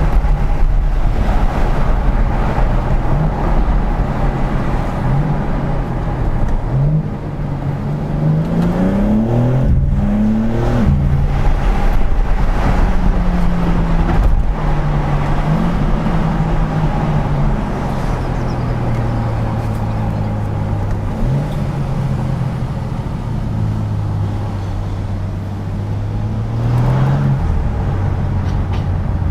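BMW M4 Competition (G82) twin-turbo straight-six engine pulling up through the gears, its pitch climbing in steps with quick drops at the upshifts about a third of the way in, then running steadier and lower at cruising speed.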